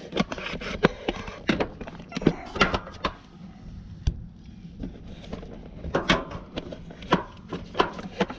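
Irregular clicks, knocks and short crackles of hand work on a heat pump's outdoor unit as tape is wrapped around the reversing valve to keep it from rubbing on the copper lines.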